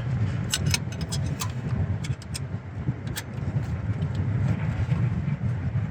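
Light clicks and taps of hand tools and metal parts, several in the first two and a half seconds and one more a little after three seconds, over a steady low background rumble.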